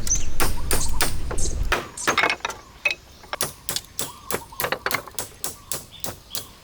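A rapid run of sharp clicks or knocks, about three to four a second, after a low rumble that stops abruptly a little under two seconds in.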